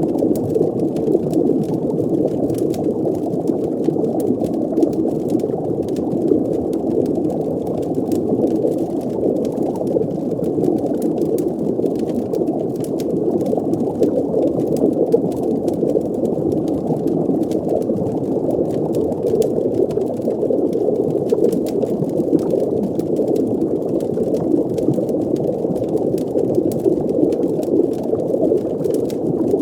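Underwater ambience: a steady, muffled wash of bubbling water with a deep rumble and faint scattered crackles.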